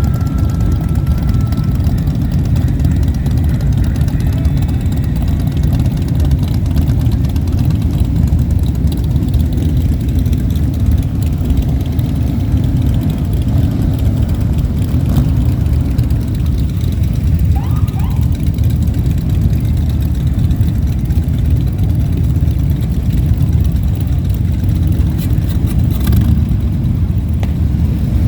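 Motorcycle engine running steadily: a continuous low rumble.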